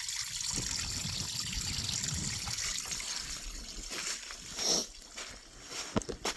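A small waterfall trickling and splashing over rocks, fading after about three seconds, followed by a few footsteps and knocks on rock and gravel.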